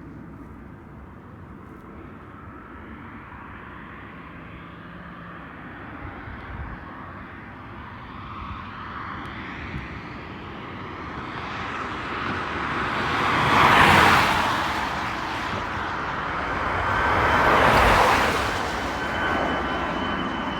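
Jet airliner passing close by, its engine roar building over several seconds to a loud peak about two-thirds of the way in, swelling again shortly after.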